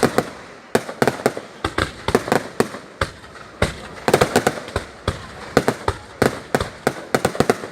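Fireworks going off: a fast, irregular run of sharp cracks and bangs, coming in clusters with brief gaps between them.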